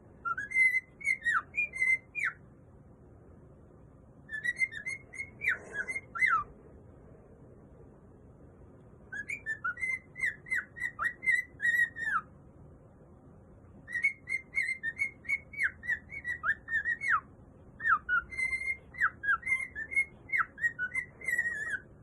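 Pet cockatiel whistling its song in five bursts of quick, chirpy whistled notes, each lasting two to four seconds with short pauses between.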